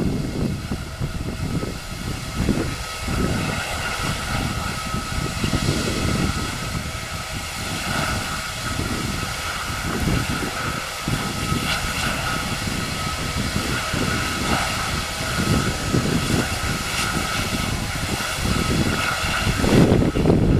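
Airbus A319 jet engines running with a steady high whine, while wind buffets the microphone with a gusty low rumble.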